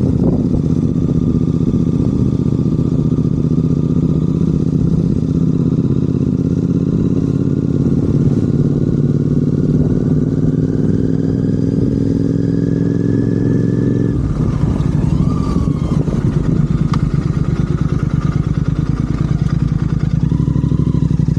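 Royal Enfield Continental GT 650's 648 cc parallel-twin running through Red Rooster aftermarket exhausts while being ridden. The engine note rises slowly and steadily, then about fourteen seconds in it drops abruptly and turns choppier as the throttle is closed.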